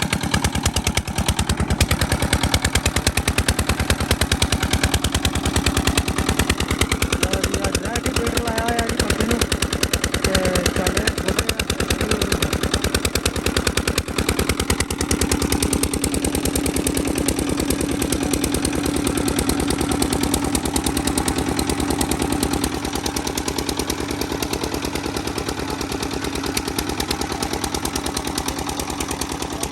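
Petter-type single-cylinder diesel engine running at a steady speed with a rapid, even exhaust beat, driving a directly coupled tubewell pump.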